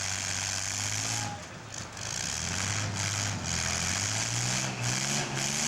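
Engines of small cars in a mini-car demolition derby running and revving, their pitch rising and falling near the end.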